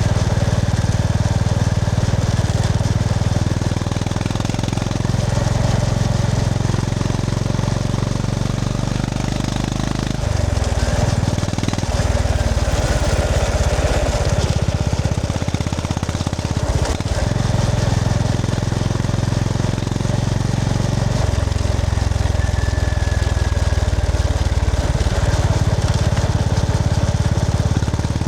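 Honda GB350S single-cylinder motorcycle engine and exhaust running under way, a steady low pulse that shifts in pitch several times, over a haze of wind noise.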